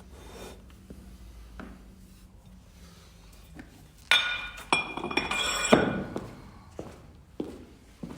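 Metal gym weights clanking and clinking with a ringing tone for about two seconds, starting about four seconds in; a few light knocks before and after.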